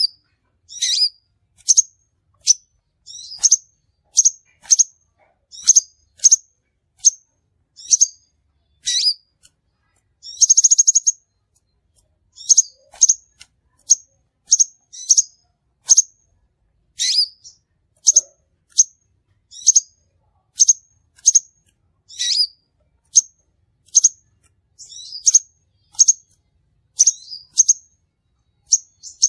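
Crimson sunbird (sepah raja) calling: a series of short, sharp, high chirps, about one to two a second, with one longer buzzy trill about ten seconds in.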